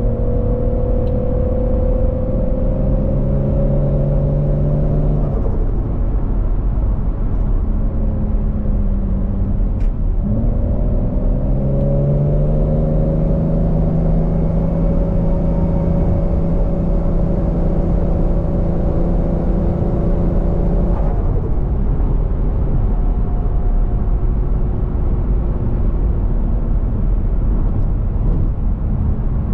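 Turbocharged 1JZ-GTE VVTi straight-six in a Scion FR-S pulling under load. Its pitch climbs steadily for about five seconds and drops, then climbs again in one long pull from about ten seconds to about twenty-one seconds before the engine note falls away suddenly.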